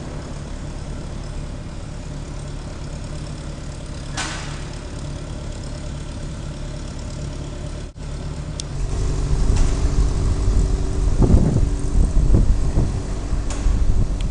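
A steady low engine rumble with a hum. It is cut off abruptly about 8 seconds in, then comes back louder and gustier about 9 seconds in, with wind buffeting the microphone.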